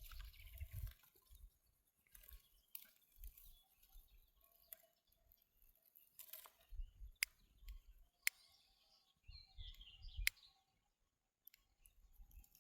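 Quiet outdoor ambience: low rumbles of wind on the microphone, a few sharp clicks and faint bird chirps.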